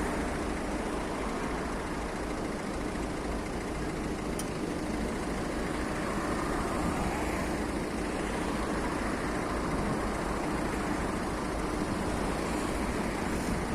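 Steady city road traffic: engines and tyres of passing vehicles, buses among them, running as a continuous rumble.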